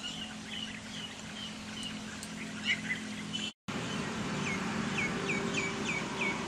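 Small birds chirping over a steady background hiss. Past the halfway point the sound breaks off for a moment, then one bird repeats a short, falling chirp about three times a second.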